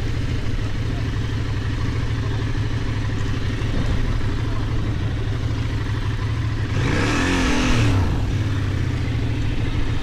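Benelli Tornado 550's 554 cc parallel-twin engine running steadily at low revs. About seven seconds in, a louder swell briefly rises and falls in pitch for about a second.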